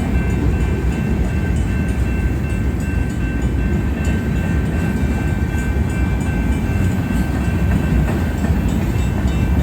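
Freight cars of a manifest train rolling past on the rails, a steady low rumble of wheels on track, with a faint steady high-pitched whine over it.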